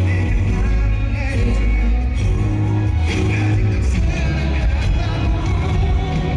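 Live concert music: a male singer over a pop backing track with heavy bass, played loud through an arena sound system.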